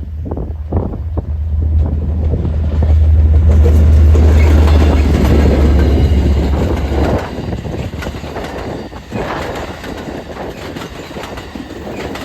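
EMD F59PHI diesel locomotive passing close by, its two-stroke V12 engine making a loud low drone that peaks a few seconds in and drops away about seven seconds in. After that the passenger cars roll past, with the wheels clicking over the rail joints.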